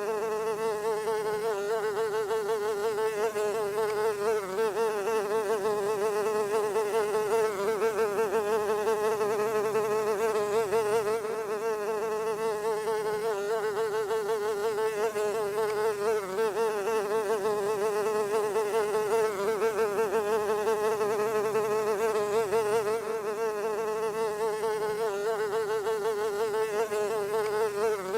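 A fly buzzing without pause: a steady wing hum that wavers slightly in pitch.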